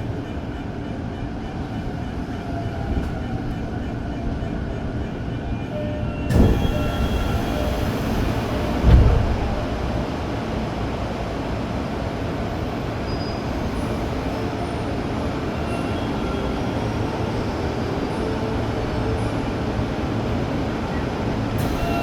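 Tokyo Metro 05 series commuter train heard from the cab as a steady rumble, with two heavy thumps about six and nine seconds in.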